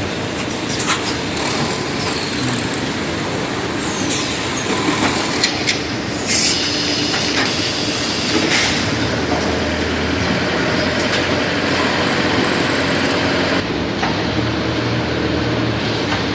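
Automatic feed-bagging and conveying line running: a steady dense mechanical clatter with occasional knocks and a few bursts of high hissing, around two seconds in and again from about six to eight and a half seconds.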